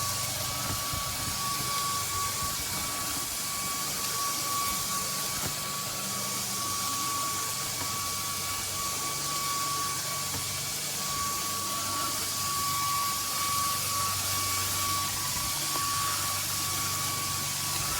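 CAMIY cordless stick vacuum running steadily: a constant whine over an even hiss of rushing air.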